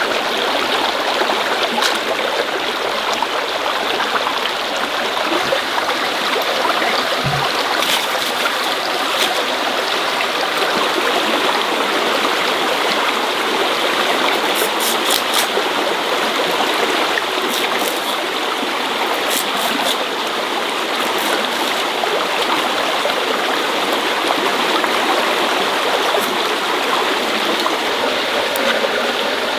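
Steady rush of running water, like a stream, with a few faint sharp clicks in the middle.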